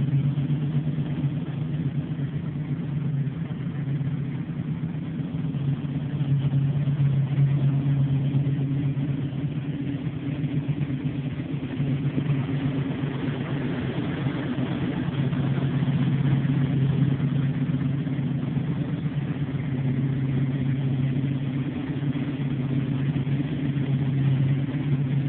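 Ford Mustang's small-block V8 running at idle, a steady engine note with slight swells.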